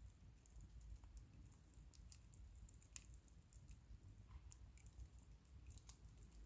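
Wood bonfire crackling faintly: scattered sharp snaps and pops at irregular intervals over a low steady rumble.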